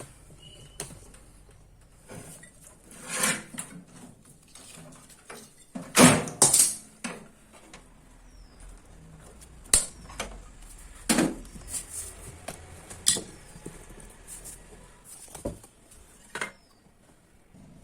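Irregular clicks, knocks and scrapes of hand tools working on metal parts while taking a microwave magnetron apart, with two louder knocks about six seconds in.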